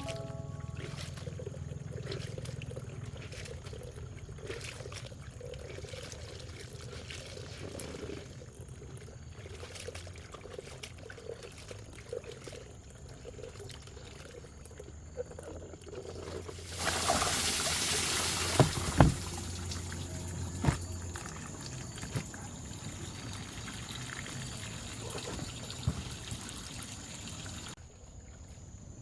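Water pouring and trickling, with a louder rush of pouring about two-thirds of the way through and a few sharp knocks after it.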